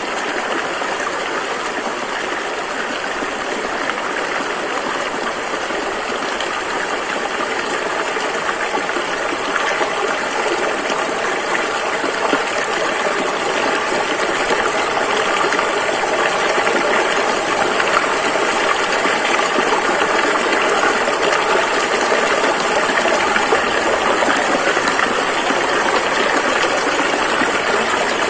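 Rushing river water flowing, a steady dense rush that swells a little about halfway through.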